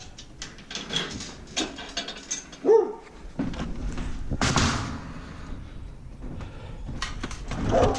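A dog gives a short yelp among scattered knocks and clatter, with a louder noisy scrape about four and a half seconds in.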